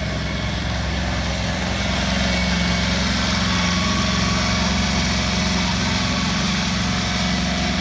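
Small engine of the cow train's tow vehicle running steadily, getting a little louder about two seconds in.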